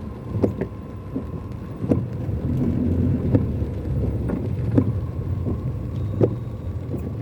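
Car in a heavy downpour: a steady low engine and road rumble, with irregular sharp taps like raindrops striking the car body.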